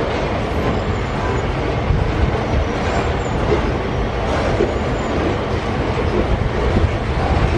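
Heavy iron-ore freight train passing close by: a steady loud rumble of steel wheels on the rails, with a few faint high squeals.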